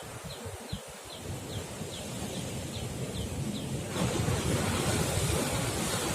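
Sea waves washing against rocky cliffs, with wind buffeting the microphone; the wash swells louder about four seconds in. A short high chirp repeats about two and a half times a second through the first four seconds, then stops.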